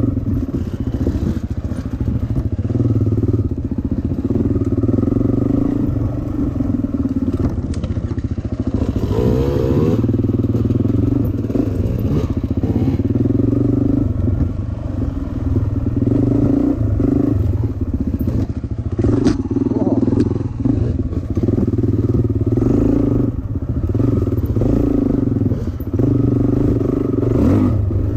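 Dirt bike engine running while being ridden, the throttle opening and easing off every few seconds.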